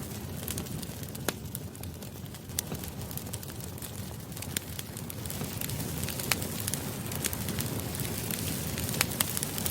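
Wood campfire burning steadily, a low rumble of flames broken by irregular sharp crackles and pops.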